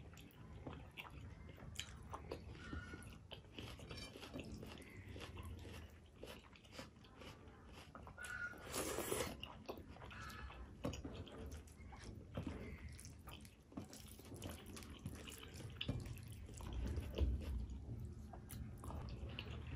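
Close-miked chewing and wet mouth sounds of a person eating rice and curry, with many small clicks, plus soft squelches of fingers mixing the rice on the plate. A short, louder rushing sound comes a little before the middle.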